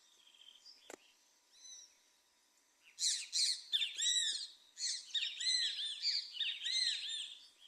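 Birds singing at sunrise: a few faint chirps, then, from about three seconds in, a dense run of rapid, repeated arching notes from several birds singing over one another. A faint click near one second in.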